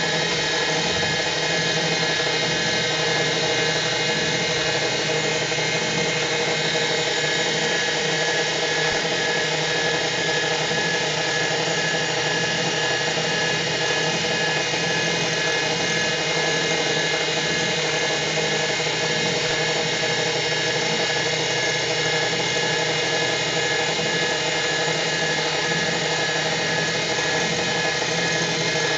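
Emco CNC milling machine running a finishing pass with a 6 mm ball-nose end mill: a steady spindle whine with a strong high tone.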